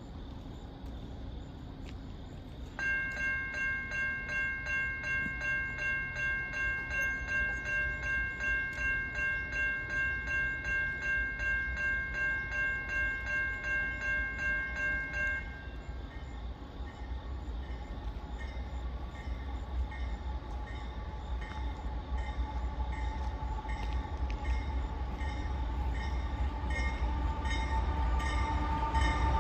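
Railroad crossing warning bell ringing in a steady, rapid pulse from about three seconds in, then cutting off after about thirteen seconds. Afterwards the low rumble of an approaching Norfolk Southern westbound train builds steadily louder.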